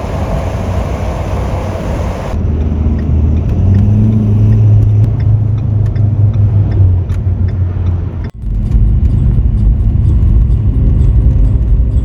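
Motor vehicle on the road: a hissing stretch cuts about two seconds in to a low rumbling drone with steady hums, broken by an abrupt cut about eight seconds in before the rumble resumes.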